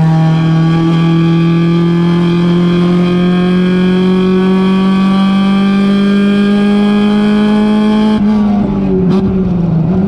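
Mazda Miata race car's four-cylinder engine at full throttle, heard from inside the car, its revs rising slowly and steadily down a straight. About eight seconds in it comes off the throttle and the note drops and goes ragged as the car slows for a corner.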